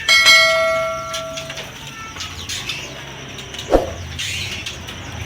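A metallic ring, struck once and fading away over about a second and a half, followed a couple of seconds later by a single short knock, with small birds chirping faintly in the background.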